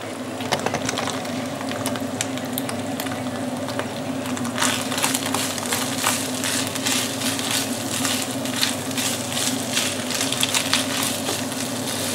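Minced meat and tomato sofrito sizzling in a frying pan while a wooden spoon stirs and scrapes it, over a steady low hum. The crackling becomes much denser about four seconds in.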